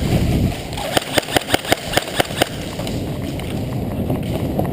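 Airsoft gun firing a quick string of about nine shots, about six a second, starting about a second in, followed by a steady rustling noise.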